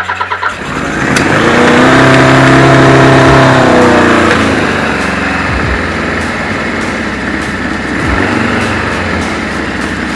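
Kawasaki KZ1000's air-cooled inline-four engine cranking briefly on the starter, catching about a second in and revving up, then settling back to a rough idle. The owner concludes that one cylinder is dead.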